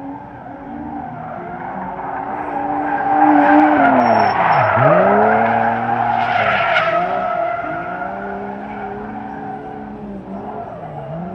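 Drift car sliding with its tyres squealing while the engine revs rise and fall. The engine note drops sharply and climbs back about halfway through, where the squealing is loudest.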